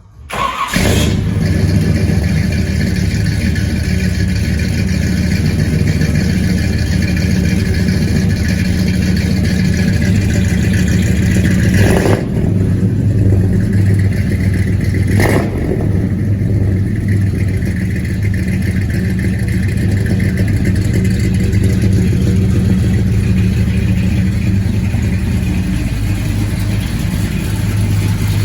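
Exhaust of a 7.4 L 454 big-block Chevy V8 running through 2.5-inch stainless pipe and full-bore Flowmaster 40-series-style mufflers, loud and steady, with two brief sharp changes about 12 and 15 seconds in.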